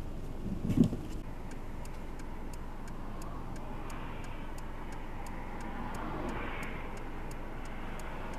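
Road traffic on a snowy highway: a steady rush of tyre and engine noise that swells twice as vehicles pass. A low thump comes about a second in, and a faint quick ticking, about three a second, runs underneath.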